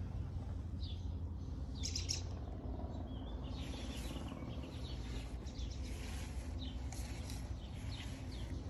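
Birds chirping and singing off and on, over a steady low rumble.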